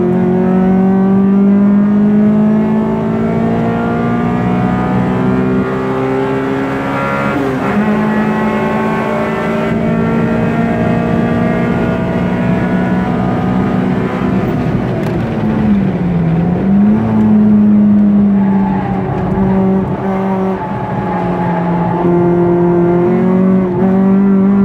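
Honda Civic VTEC four-cylinder engine heard from inside the cabin, pulling hard on track. The revs climb steadily in gear, drop sharply at a gear change about seven and a half seconds in, dip and come back up a little past the middle, then hold fairly steady.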